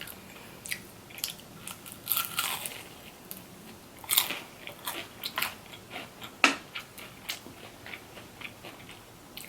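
Close-up crunching and chewing of crispy fried chicken: irregular crackly crunches, with a few louder bites about two, four and six and a half seconds in.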